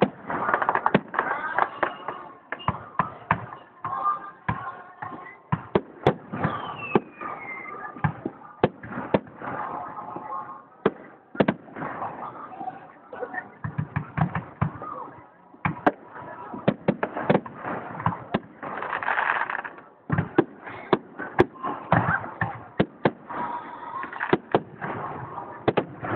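Aerial fireworks shells bursting overhead in a steady barrage: dozens of sharp bangs at uneven intervals, at times several a second.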